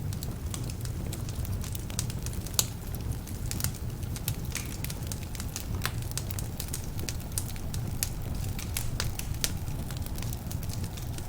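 Wood fire burning in a fireplace: a steady low rumble of flames with frequent irregular crackles and pops from the logs, one sharper pop about two and a half seconds in. The logs are a bit damp, which adds to the crackling.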